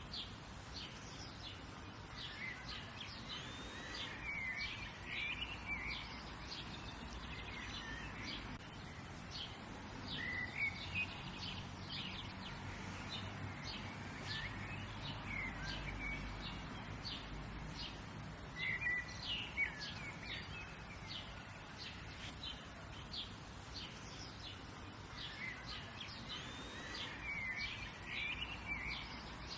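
Birds chirping and twittering, many short calls and phrases one after another, over a low steady background hum.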